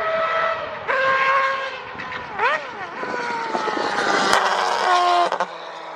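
Racing car engine at high revs. Its note jumps up about a second in, sweeps quickly up and down at about two and a half seconds, then falls steadily.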